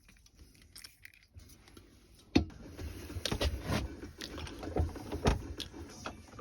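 Metal tools and parts being handled: after a quiet start, a sharp click about two and a half seconds in, then irregular clinks, clicks and rattles.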